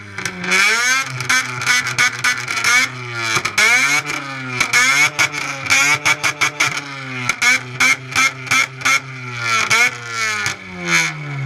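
Car engine revved hard over and over in quick blips, its pitch climbing and dropping again and again, with sharp pops between the revs.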